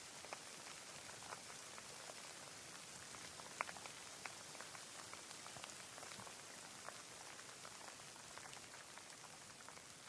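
Quiet, steady rain: an even hiss with many individual drops ticking at random, one louder drop about three and a half seconds in.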